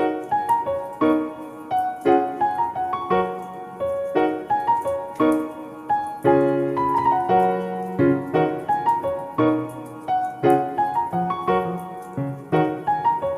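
Background piano music: a melody of struck notes over chords at an even, moderate pace, starting suddenly after a brief silence.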